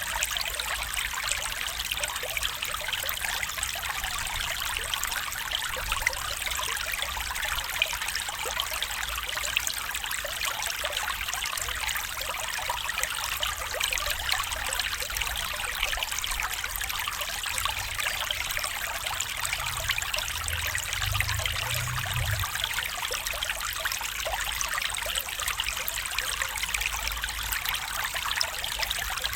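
Stream water trickling and babbling steadily, an even rush with fine flickering detail, with a brief faint low rumble about two-thirds of the way through.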